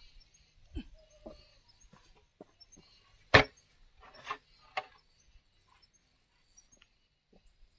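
Scattered knocks and taps of bamboo being handled, a handful of separate hits with one sharp loud knock about three and a half seconds in.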